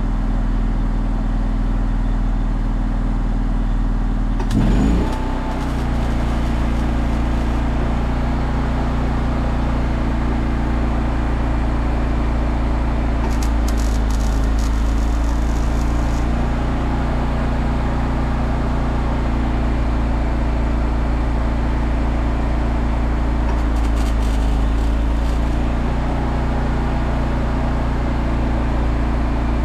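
Engine of an engine-driven welding machine running steadily. About five seconds in it speeds up with a quick rise in pitch and then holds at the higher speed. Brief crackles come in around the middle and again later.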